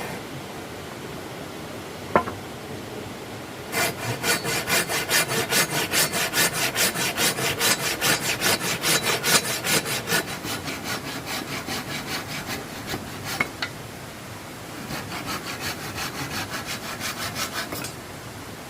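Hand saw cutting wood in fast, even strokes, about four or five a second, in two runs with a pause between. A single knock comes shortly before the sawing starts.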